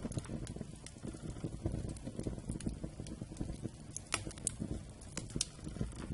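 Wood campfire burning: a low steady rush of flames with irregular crackles and pops from the wood, a few sharper pops near the middle.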